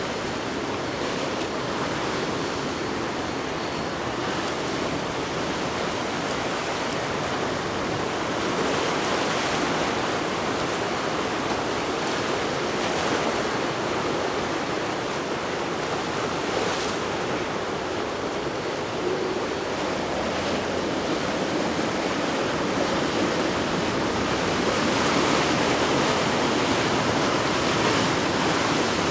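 Ocean surf and churning water rushing steadily, swelling a few times.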